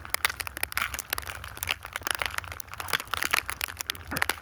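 Irregular crunching and crackling of snow close to a phone's microphone, with a steady low rumble underneath.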